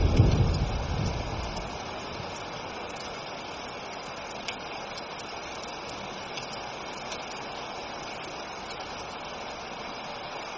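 Steady rain falling, with the tail end of a low thunder rumble dying away in the first two seconds.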